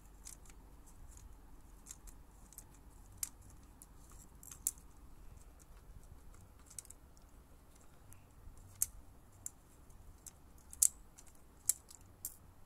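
Irregular sharp clicks and ticks of a screwdriver and small plastic parts being handled while a handheld sanitizer spray gun's casing is unscrewed and taken apart, the loudest click about eleven seconds in.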